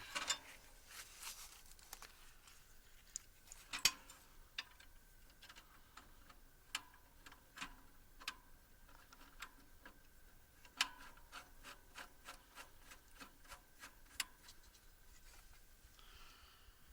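Scattered sharp clicks and light metallic knocks from hand work on a sawmill's blade guard and housing as the guard is fitted back on, the loudest knock about four seconds in. The mill's engine is not running.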